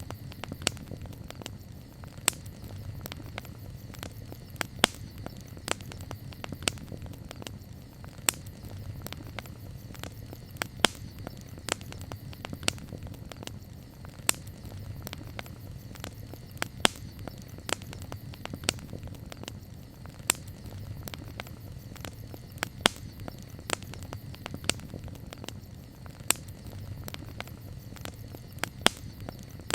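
Wood campfire crackling: frequent, irregular sharp pops and snaps over a steady low rumble of burning flames.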